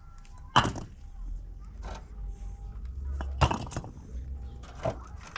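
Sharp knocks: two loud ones about three seconds apart and a fainter one near the end, over a low rumble.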